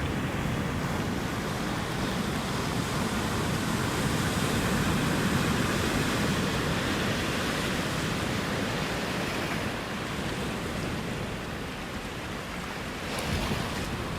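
Ocean surf: a continuous wash of breaking waves that swells in the middle, eases off, and surges again with another wave near the end.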